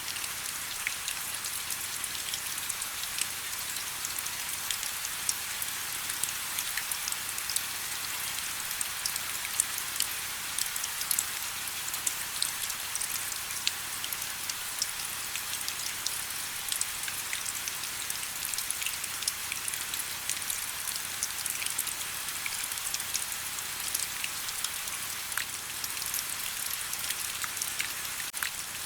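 Steady rain: a constant hiss with many separate drops ticking sharply on surfaces.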